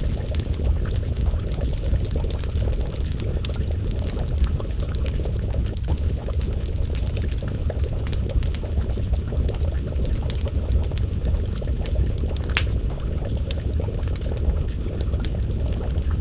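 Wood fire crackling with scattered sharp pops, one standing out about twelve seconds in, over a steady low bubbling of a pot of stew simmering over the flames.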